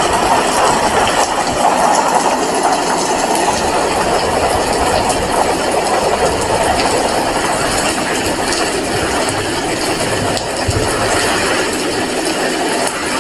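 Heavy rain falling steadily: a dense, even hiss speckled with the patter of countless drops.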